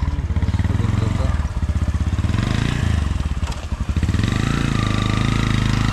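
Small commuter motorcycle engine running close by, its speed rising and falling a little, with a short dip in level about two thirds of the way through.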